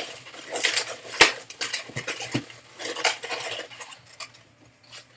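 Latex modelling balloons squeaking and rubbing against each other as they are twisted and pushed together, with a sharp snap about a second in.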